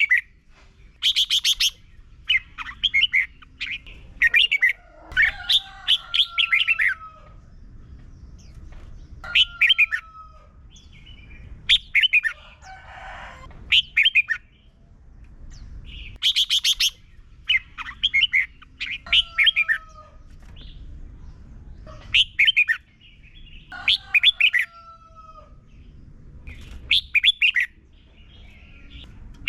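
Red-whiskered bulbul singing: short phrases of bright, rapid whistled notes, repeated every two to three seconds.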